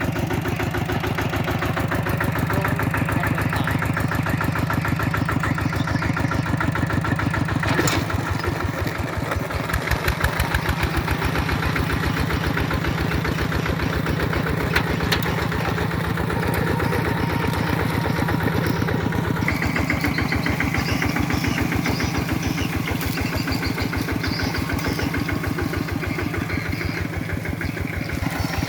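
Kubota tractor engine running steadily with an even beat, with a couple of brief knocks partway through.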